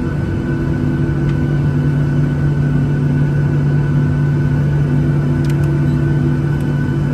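Steady cabin drone of a Boeing 737-700's CFM56-7B turbofans and airflow, heard from inside the passenger cabin: a deep rumble with a constant low hum and a steady higher whine, and a few faint ticks.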